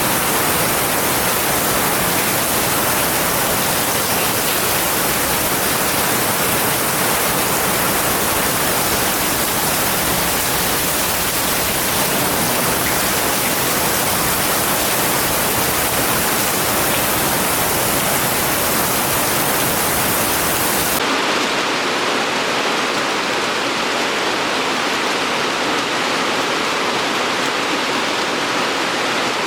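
Steady heavy rain, a dense even hiss. About two-thirds of the way through it cuts abruptly to a different rain recording with less high hiss and less low rumble.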